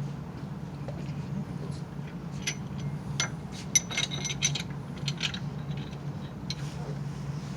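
Scattered light metallic clinks and taps of hand tools and bolts being handled at an engine block, with a cluster of them about three to five seconds in. A steady low hum runs underneath.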